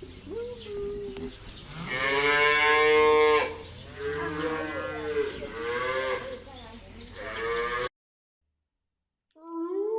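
Cattle mooing: a series of drawn-out moos, the longest and loudest about two seconds in, followed by three shorter calls. The sound cuts off abruptly about eight seconds in.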